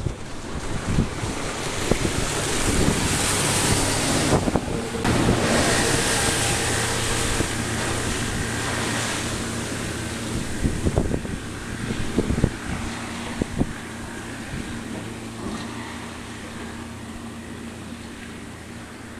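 RIB's engine running steadily at speed under heavy wind noise on the microphone and rushing water, with a few sharp thumps about two-thirds of the way through. The wind and water noise is strongest in the first third and then gradually eases.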